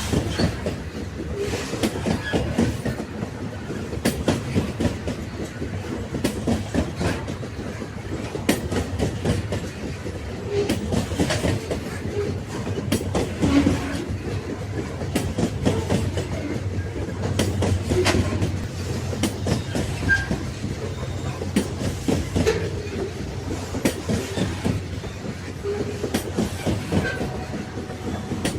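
Railway wagons rolling on the track: a steady rumble with repeated clickety-clack of the wheels over rail joints, and now and then a brief metallic squeal.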